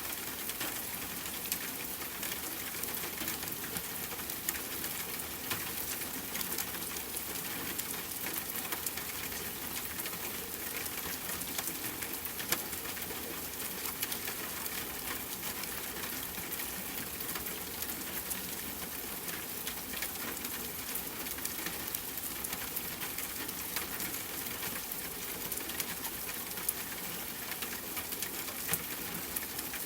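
Steady rainfall mixed with the crackle of a wood fire in a fireplace: an even hiss of rain with many small sharp pops and snaps scattered through it.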